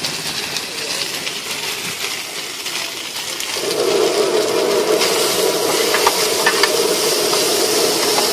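Food sizzling on a large hot griddle pan, getting louder about three and a half seconds in. A metal spatula scrapes and clicks against the pan near the end.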